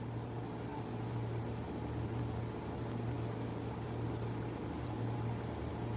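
A steady low hum with a faint, even hiss underneath and no distinct events: background room noise.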